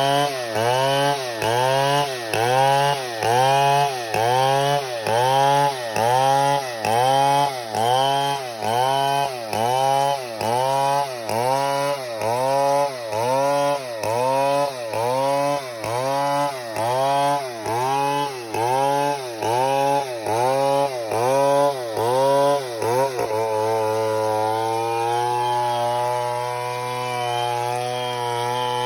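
STIHL 070 two-stroke chainsaw working through wood, its engine pitch rising and falling about once a second. About 23 seconds in, it settles into a steady pitch.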